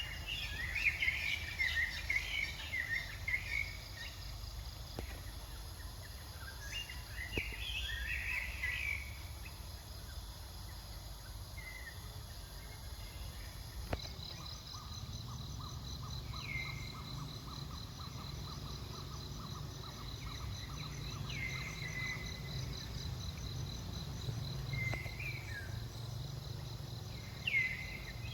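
Outdoor nature ambience: clusters of bird chirps in the first several seconds, then, after an abrupt change about halfway, steady pulsing insect trilling with a few short downward-sliding chirps over a low rumble.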